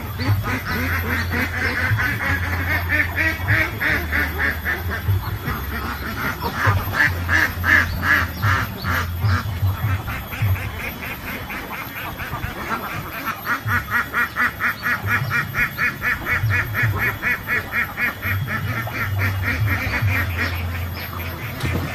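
Waterfowl calling in long bouts of rapid, evenly repeated nasal notes, about five a second, with short pauses between bouts, over a steady low rumble.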